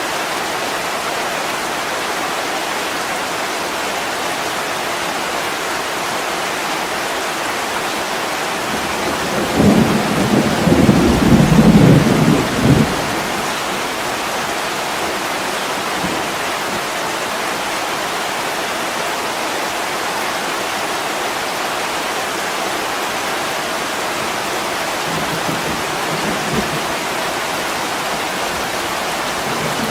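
Steady heavy rain on window glass, with a low rumble of thunder about a third of the way in that lasts about three seconds.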